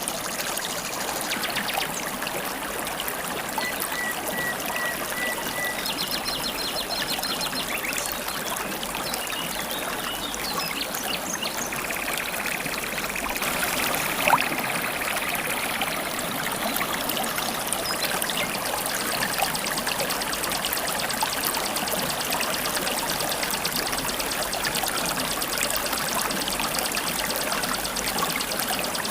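Shallow river water babbling and trickling steadily, with wild birds calling over it: a short run of notes about four seconds in, a quick high trill a few seconds later, and a long, fast, high trill over the last third.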